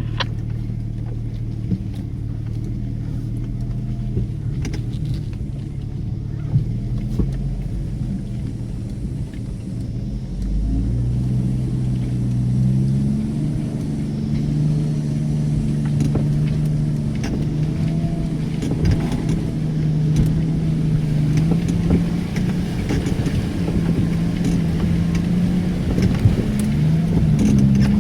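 Off-road vehicle's engine running under load on a deep, rain-soaked trail. The engine note steps up and grows louder about ten seconds in and holds there, with a few short knocks.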